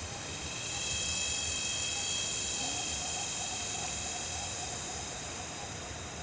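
Insects droning in a steady high-pitched chorus that swells about a second in and eases off near the end, with a fainter, lower warbling call through the middle.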